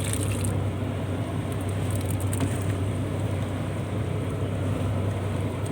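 Purse-seine fishing boat's engine running steadily, a low even hum.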